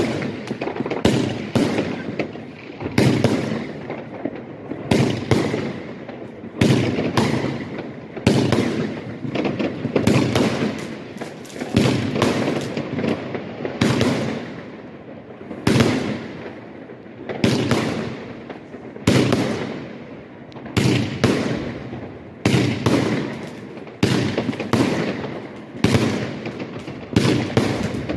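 A consumer firework cake (compound) firing a long volley of aerial shots: a steady run of sharp bangs at about one and a half a second, each fading quickly before the next.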